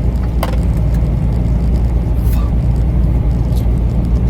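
Steady low rumble of a truck's engine and road noise heard inside the cab while driving, with two brief faint higher sounds, about half a second in and a little past two seconds.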